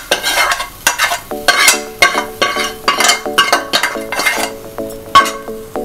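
Steel spoon scraping and knocking tadka out of a metal kadhai into a pot of dal, a quick run of scrapes and taps. From about a second in, the pan rings briefly after each knock.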